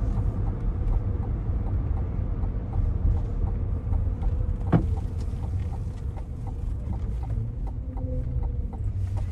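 Low road and engine rumble inside the cabin of a 2024 Cadillac Escalade ESV, with a steady rhythmic clicking of about three ticks a second and one sharp click about halfway through.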